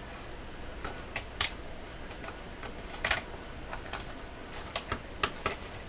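Light irregular clicks and ticks of a loose screw rattling inside the plastic cabinet of a Sharp transistor radio as the set is tilted to work it out, with the loudest click about three seconds in.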